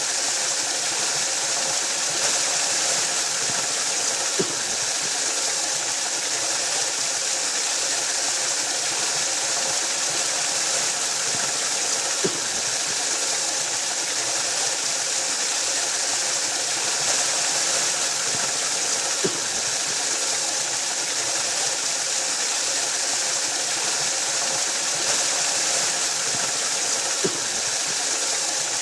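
Waterfall cascading in a steady, unbroken rush of falling water, with a faint click recurring about every seven to eight seconds.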